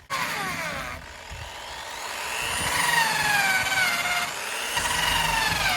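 Drill spinning a rubber eraser wheel against the truck's paint to strip emblem adhesive residue. The motor whine slides up and down in pitch as the trigger is worked and the wheel loads against the surface. It dips briefly about a second in and jumps back up near the end.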